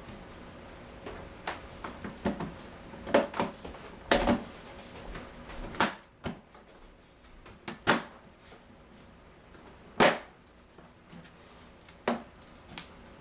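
Irregular sharp clicks and knocks of washer door parts being pressed and snapped together while a door hinge is fitted, about half a dozen louder knocks with the loudest about ten seconds in.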